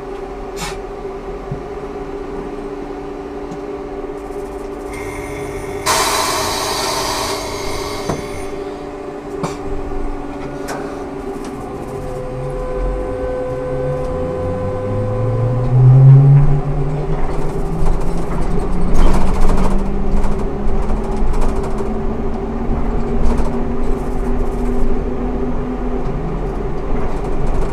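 Ikarus 280T trolleybus with GVM traction equipment: a steady electrical hum, a burst of compressed-air hiss about six seconds in, then the traction motor's whine rising steadily in pitch as the trolleybus pulls away and gathers speed.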